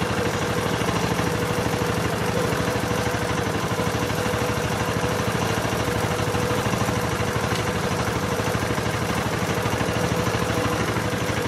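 Small engine of a bamboo train running steadily with a fast, even chugging and a constant hum.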